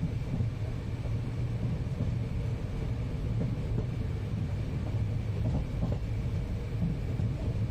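Interior of an Indian passenger train running along the track: a steady low rumble of wheels and carriage, with a faint steady high tone above it.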